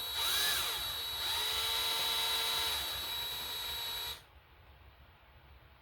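Electric drill turning a reverse (left-hand) drill bit against a broken bolt in an engine block. The motor whine starts, runs steadily, and stops about four seconds in.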